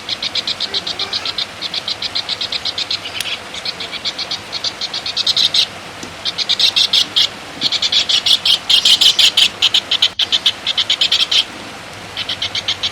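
Songbird giving a rapid, rhythmic chattering trill of about ten high notes a second, in runs broken by short pauses; this is the kind of recorded song played to train caged songbirds.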